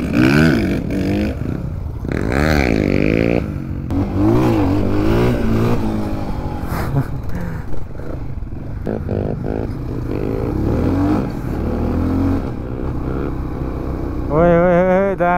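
Dirt bike engine revving, its pitch rising and falling again and again as the throttle is worked, with a louder, higher run of revs near the end.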